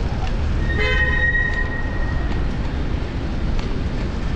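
Steady wind and road rumble on a chest-mounted action camera while riding a fixed-gear bicycle. About a second in comes a brief pitched ringing tone, one note lingering for about a second.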